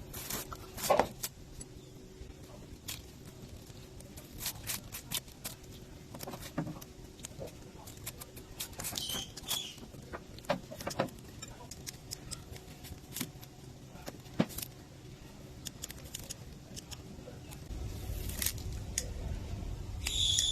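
Scattered light clicks and taps of small parts and tools being handled during hands-on repair work, over a faint steady hum. Two brief high chirps come about nine seconds in.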